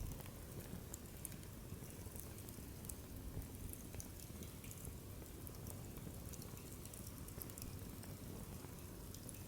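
Wood fire burning in a campfire stand, with scattered sharp crackles and pops over a steady low rush.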